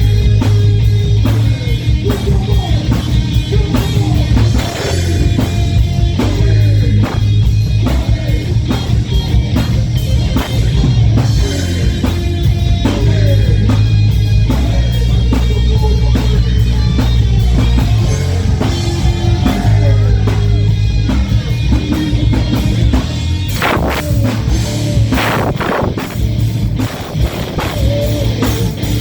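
Rock band playing live: electric guitars and bass over a drum kit, loud and continuous, with a few heavy accented hits about three-quarters of the way through.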